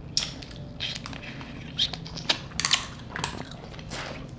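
Eating sounds from a seafood boil: irregular short crunches and crackles of chewing and handling shellfish such as snow crab legs and shrimp, several in quick succession.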